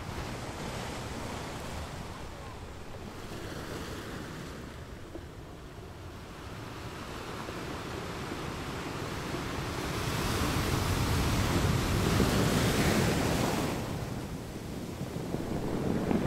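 Sea waves and wind noise on the microphone, growing louder about ten seconds in, dipping briefly, then rising again near the end.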